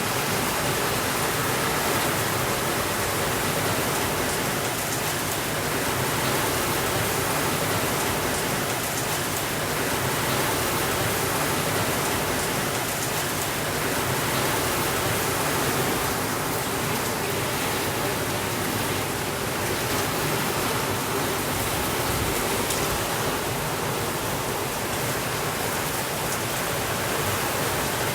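Steady rainfall, an even hiss with no let-up or change in level.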